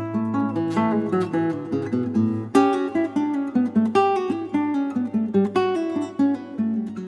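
Background music: acoustic guitar playing a picked melody over low bass notes.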